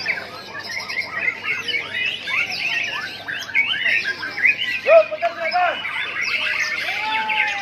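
Several white-rumped shamas singing at once, a dense chorus of overlapping whistles, chirps and trills, with a few lower, longer whistled notes about five and seven seconds in.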